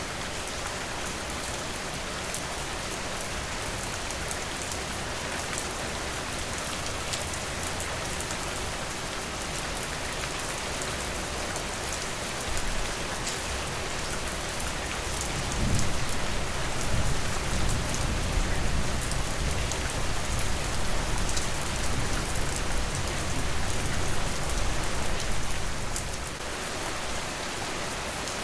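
Steady rain falling on a surface, an even hiss with scattered single drop ticks. About halfway through a low rumble swells in and lasts about ten seconds before fading.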